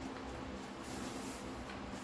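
Quiet background with a faint steady hum and no distinct event.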